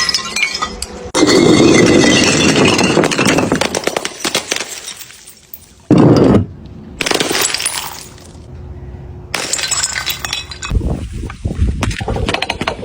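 Glass bottles and jars clattering down stairs, clinking and shattering, in several abruptly cut segments with a very loud smash about six seconds in.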